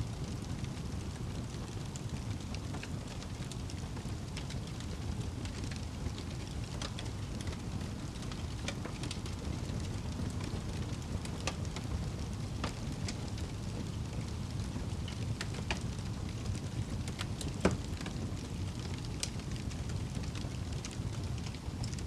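Wood fire crackling with scattered sharp pops over a steady low rumble, one pop louder than the rest about three-quarters of the way through.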